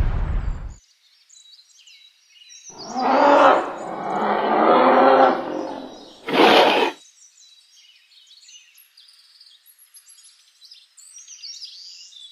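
Dubbed sound effects: a rumbling eruption blast cuts off in the first second, then a dinosaur roar lasting about three seconds and a short sharp burst, over faint bird chirping.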